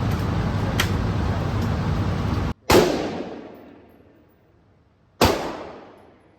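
Two rifle shots from an AR-15 in 5.56, about two and a half seconds apart, each ringing out in a long fading echo, after a stretch of steady background noise.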